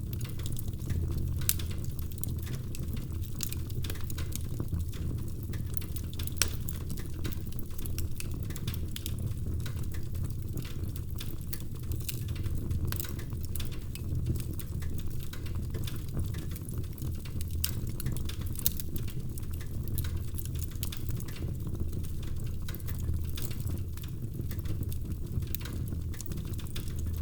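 Wood fire burning in a fireplace: an irregular stream of sharp crackles and pops over a steady low rumble of the flames.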